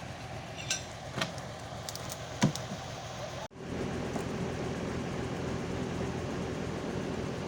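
Engine of an old army 4x4 truck running steadily, with a few sharp knocks and clatters over it in the first half. The sound drops out abruptly for an instant about three and a half seconds in and comes back a little louder.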